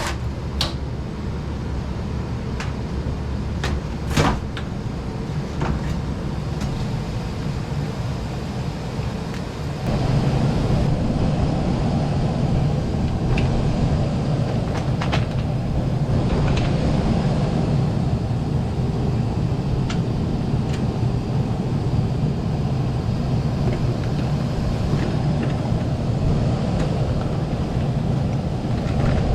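Steady low mechanical hum with scattered sharp clicks and knocks from a screw and metal panel being worked on an HVAC indoor unit. About ten seconds in the hum steps up louder and then holds steady.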